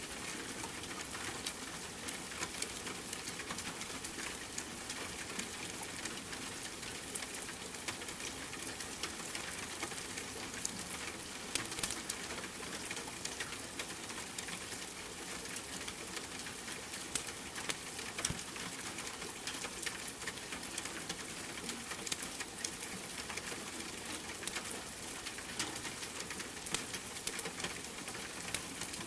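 Steady rain with a crackling wood fire, many small sharp pops scattered through it.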